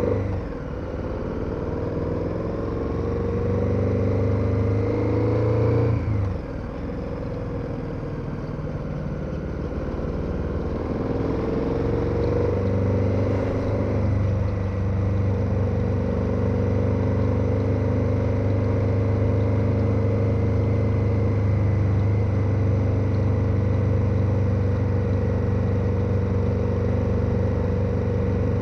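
KTM 1290 Super Adventure's V-twin engine pulling through the gears: the pitch climbs, breaks at an upshift about six seconds in, climbs again, then holds steady at cruising speed from about halfway on.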